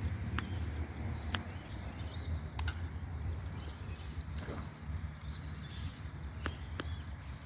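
Faint chirps of birds over a steady low rumble, broken by about six sharp clicks.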